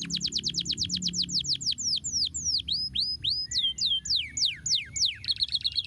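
Canary singing: a fast tour of repeated falling notes, about a dozen a second, that slows into longer swooping notes and ends in a rapid trill near the end.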